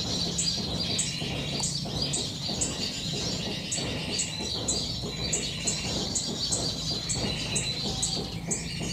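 Songbirds chirping and calling: a short high chirp repeats about twice a second over lower warbling notes.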